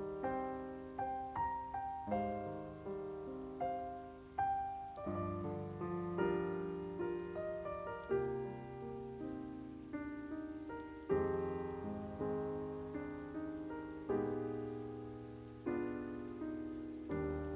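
Background music: solo piano playing a gentle melody over chords, notes struck and left to fade.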